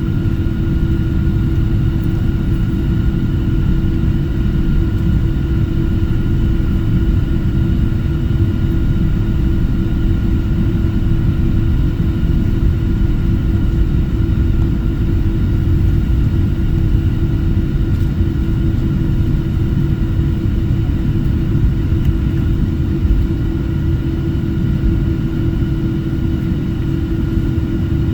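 Passenger airplane's engines heard from inside the cabin while it taxis: a steady low rumble with an even hum and a fainter whine held at constant pitch.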